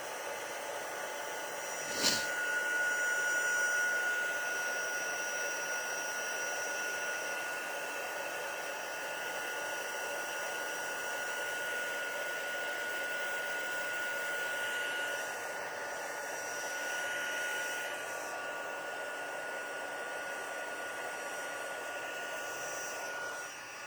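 Embossing heat tool blowing steadily with a high motor whine, melting embossing powder. There is a brief knock about two seconds in, and the tool cuts off at the very end.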